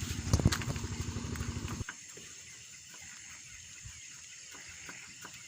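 Excavator's diesel engine turning over with a fast, even pulse, then cutting off suddenly about two seconds in. Afterwards only a faint steady high hiss and a few small ticks.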